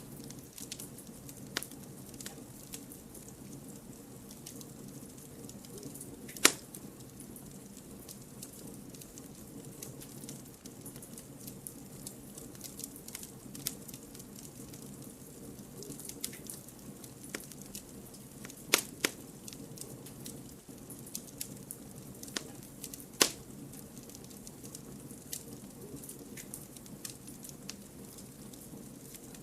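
Wood campfire burning: a steady low rustle of flames under constant small crackles, with three loud sharp pops of the logs about six, nineteen and twenty-three seconds in.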